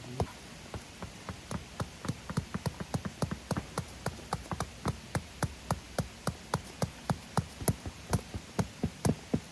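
Tent peg being hammered into the ground with a makeshift tool instead of a proper hammer: a long run of quick, even strikes, about three to four a second.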